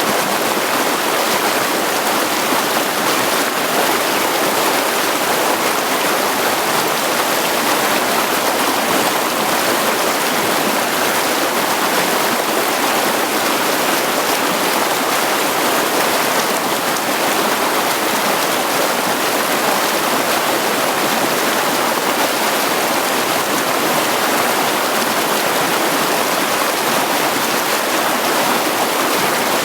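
Mountain creek running steadily over stones: a continuous, even rush of water.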